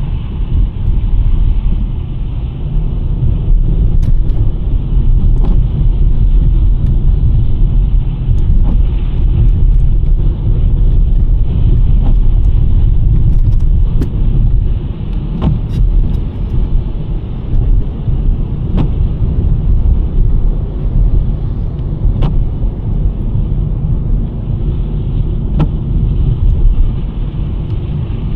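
2023 Nissan Sentra driving on a snowy road: a steady low rumble of tyre and road noise, with occasional faint ticks.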